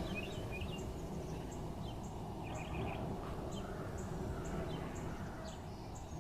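Outdoor ambience: birds chirping in bursts, with short high notes repeating about twice a second, over a steady low rumble of background noise.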